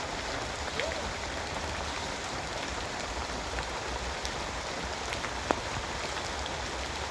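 Steady rain falling, a continuous hiss with scattered sharp ticks of single drops, the loudest about five and a half seconds in.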